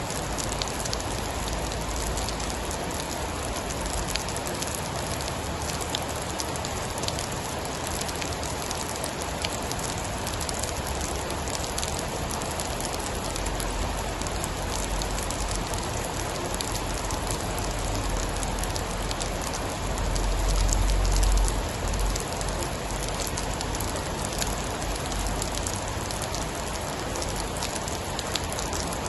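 Steady heavy rainfall, a dense even hiss with scattered drop ticks. A low rumble of distant thunder swells briefly about twenty seconds in.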